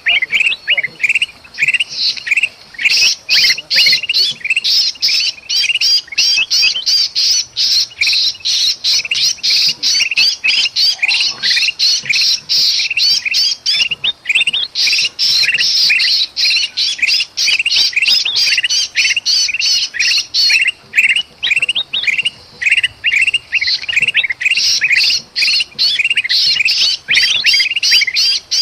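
Bulbuls (kutilang emas and kutilang) calling in agitation: a dense, unbroken run of rapid harsh chirps and squawks, mixed with the distress calls of a trapped bird. It is an alarm-and-distress chorus used to lure other birds in.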